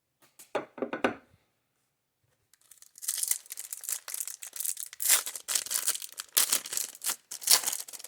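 A few light knocks of a card stack being set down, then a trading-card pack wrapper being torn open and crinkled, with irregular crackling from about three seconds in.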